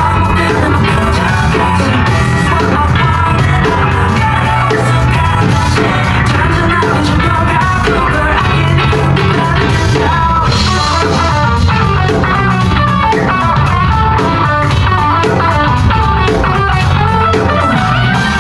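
Live band performance of a rock song: electric guitar and drum kit with singing.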